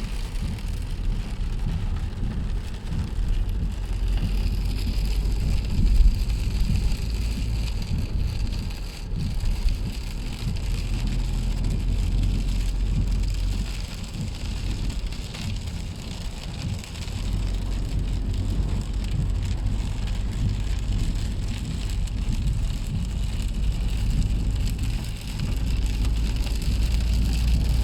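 Heavy rain pattering on a car's roof and windscreen, heard inside the moving car over the low rumble of the engine and tyres. There is a brief louder knock about six seconds in.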